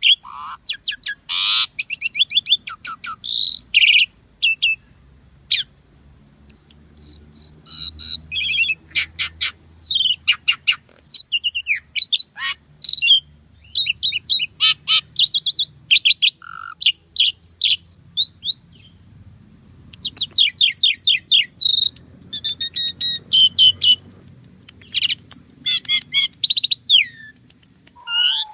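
Pied starling (jalak suren) singing a long, varied song of rapid chirps, trills and whistles in bursts, with short pauses about six seconds in and again near eighteen seconds.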